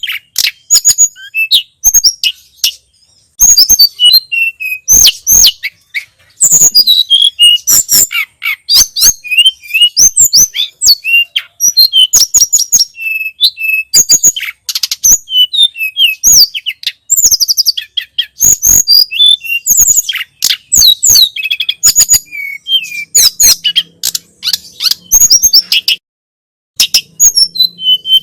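Tledekan gunung (sulingan gunung) songbird singing: a fast, varied run of high chirps and whistled notes in quick phrases with short breaks, and a longer pause near the end.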